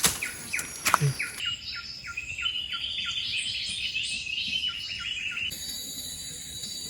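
A songbird calling: a quick series of short downward-sliding chirps, about three a second, with rapid high twittering over them through the middle, stopping about five and a half seconds in. After that a steady high insect drone is left.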